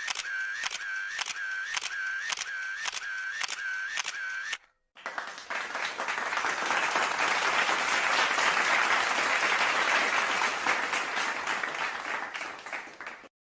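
A camera shutter clicking over and over, about two shots a second, for the first four and a half seconds. After a short gap, a crowd applauds steadily for about eight seconds.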